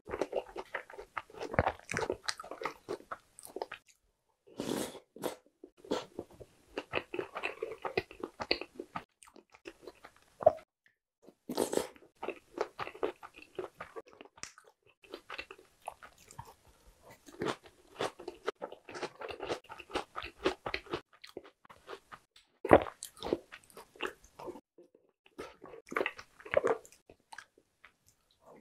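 Close-miked mukbang eating: a person biting and chewing a mouthful of chocolate cookies and chocolate bread soaked in milk, with wet mouth sounds. It comes in bursts broken by short pauses.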